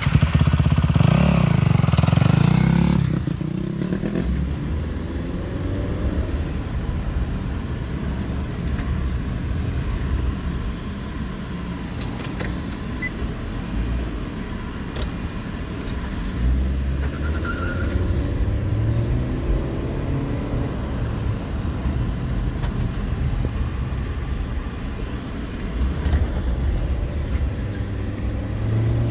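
Dirt bike engine revving loudly for the first few seconds, then a steadier low engine rumble that swells and eases.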